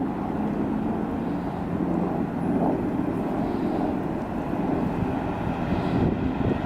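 Steady low outdoor rumble of distant traffic, with a faint hum in the first couple of seconds.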